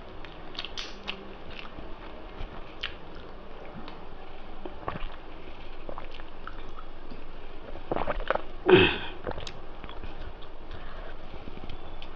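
Close-up eating sounds: chewing and mouth clicks from someone eating rice and spicy mutton curry. A single louder, longer mouth sound with a falling pitch comes about nine seconds in.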